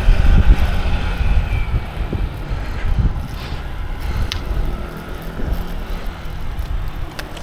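A car engine running close by, with heavy low rumble and a steady hum that fades in the middle and returns later, and a few short clicks.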